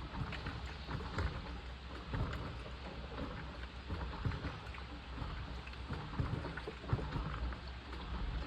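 Washing machine agitating a load in water: continuous sloshing and churning with irregular small knocks over a steady low hum from the motor.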